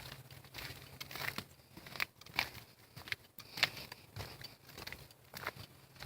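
Footsteps crunching on a trail at a walking pace of about two steps a second, over a faint low steady hum.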